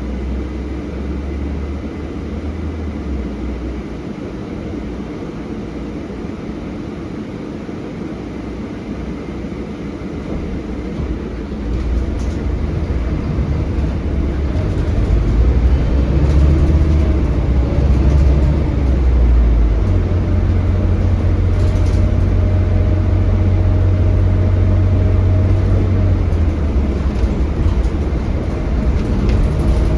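On board a Scania K320HB bus with a DC9 five-cylinder diesel engine: the engine runs low and fairly quiet at first. From about twelve seconds in it pulls harder and the engine note rises and grows louder, then it settles into a steady drone as the bus cruises.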